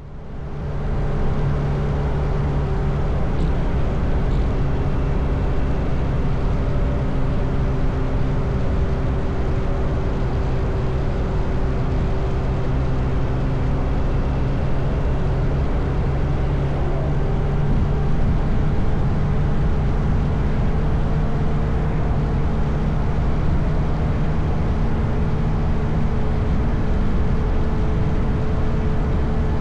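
Motorcycle engine running at a steady cruising speed with road and wind noise, the engine pitch holding nearly constant.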